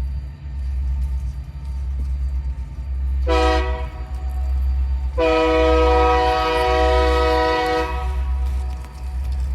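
Union Pacific diesel locomotive's air horn sounding a short blast, then a long blast about two seconds later, over a steady low rumble.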